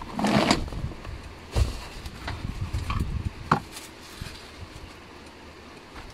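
A car's rear seat being pushed and folded by hand: a rustling shove of the seat near the start, then a few knocks and clicks from the seat frame and latch.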